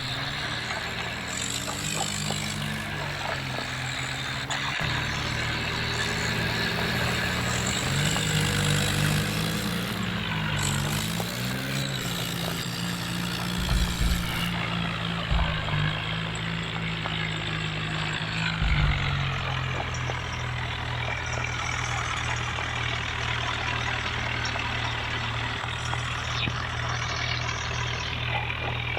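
Tractor's diesel engine running, its pitch rising and falling several times as the engine speed changes, then holding steady for the last ten seconds. A few low thumps come around halfway through.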